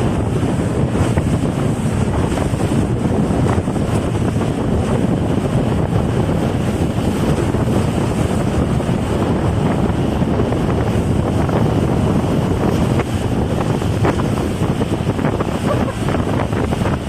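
Strong wind buffeting the microphone, with water rushing and splashing, as heard riding a banana boat towed at speed across the sea.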